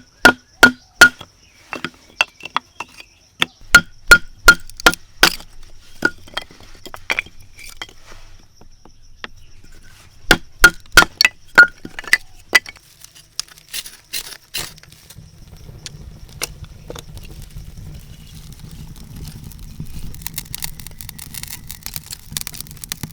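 A tool striking hard again and again in quick groups, roughly two to three blows a second, each blow with a short ringing tone, with pauses between the groups. About two-thirds of the way in the blows thin out and a low rustling noise takes over, while insects buzz steadily throughout.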